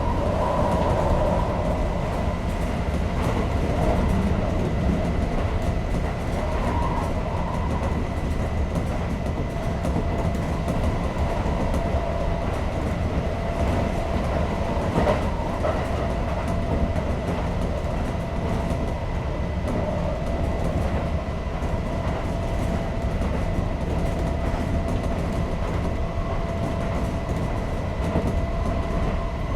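Kintetsu 5800 series electric train running at speed, heard from inside the car: a steady low rumble of wheels and running gear with a faint steady whine, and a single knock about halfway through.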